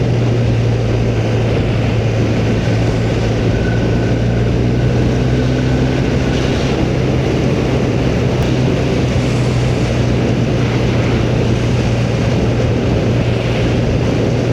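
Motorcycle engine holding a steady cruising speed, a constant low drone with a dense rush of wind and road noise over it.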